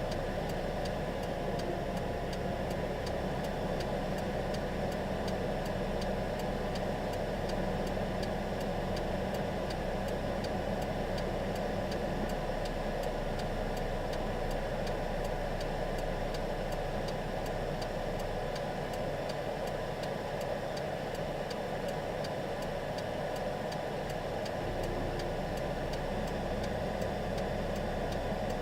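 Steady engine-like rumble with a regular ticking throughout.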